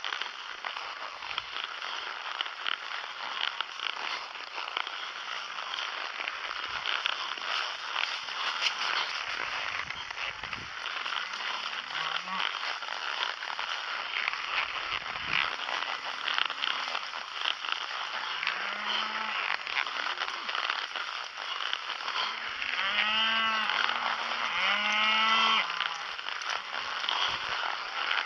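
Cows mooing several times, the loudest calls near the end, over a steady hiss.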